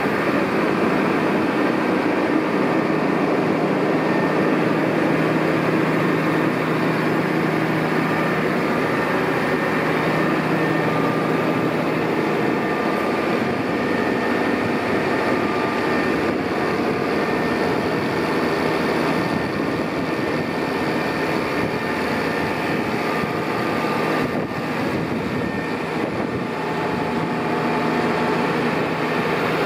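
McCormick XTX 200 tractor's diesel engine running steadily at a constant speed.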